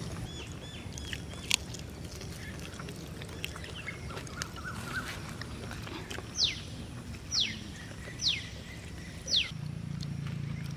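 A bird calling outdoors: a few faint chirps, then four sharp, quickly falling call notes about a second apart, over a steady low hum.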